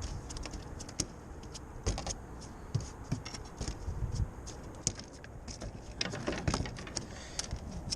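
Irregular clicks, taps and rattles of handling as a freshly caught snapper is held and flops against a plastic tape measure, with a busier flurry of clatter a little after six seconds in.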